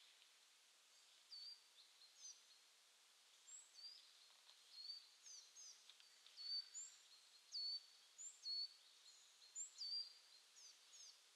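Faint high bird chirps repeating every second or so, each sliding down and then holding a short steady note, over a soft steady hiss.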